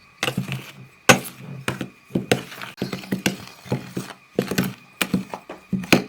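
A mixing utensil knocking and scraping against a bowl while stirring dry cake ingredients, with uneven knocks about twice a second.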